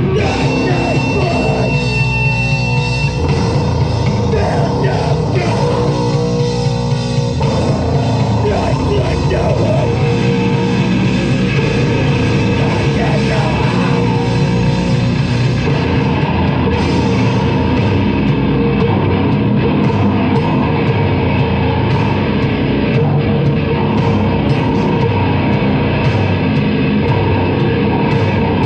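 Live heavy rock band playing loud, distorted music with drums, the sound dense and unbroken.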